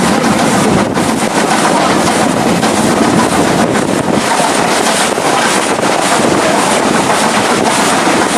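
Train carriage in motion, with a steady loud rush of wind over the microphone and faint clicks from the wheels on the rails.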